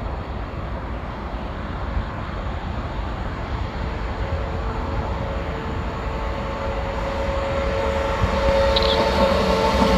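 Electric locomotive 111Ed-020 approaching at the head of an intermodal container train: a rumble that grows steadily louder, with a steady whine coming up in the second half as it draws near.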